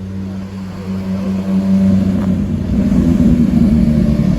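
A car engine running with a steady low hum that grows louder about halfway through.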